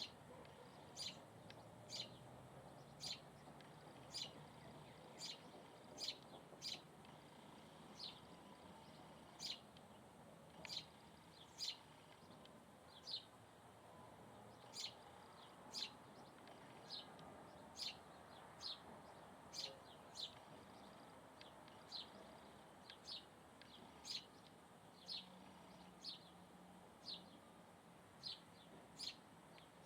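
A bird chirping over and over, short high notes about once a second, each a quick sharp sweep.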